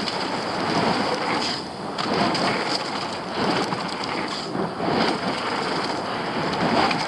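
Polygon Siskiu T7 mountain bike rolling fast down a wet dirt trail: tyres splattering through wet ground, with a rushing noise that swells and eases several times.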